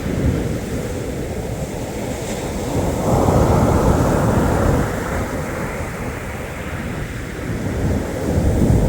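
Black Sea surf: waves breaking and washing on the shore. A louder wave rushes in about three seconds in, and another builds near the end.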